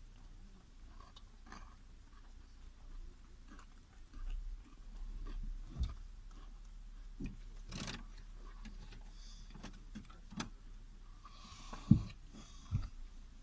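Scattered small clicks, taps and knocks of things being handled inside a car cabin, with a louder knock about twelve seconds in.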